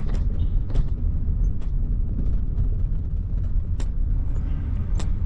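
A car on the move: a steady low rumble of road and engine noise, with a few sharp knocks along the way.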